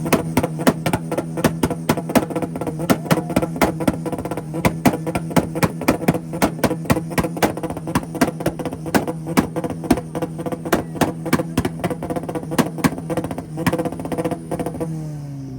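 Honda Civic engine held on a two-step launch limiter: steady high revs with a rapid, even rattle of exhaust pops as the limiter cuts in and out. The revs fall away near the end.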